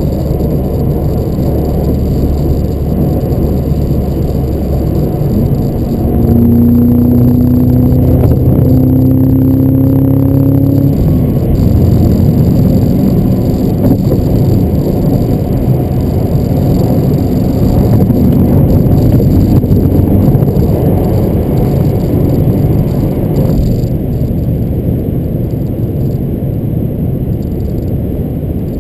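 Cabin sound of a 2023 Cadillac CT5-V Blackwing's supercharged 6.2-litre V8 at freeway speed over steady road noise. About six seconds in, the engine pulls hard for about five seconds, its note slowly rising in pitch and getting louder, then it eases back to a steady drone of engine, tyres and wind.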